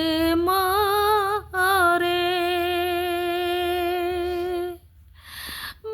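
A woman singing a slow Bengali song with no instruments heard, drawing out the word 'more' in long held notes with vibrato. Near the end the voice stops and a breath is heard.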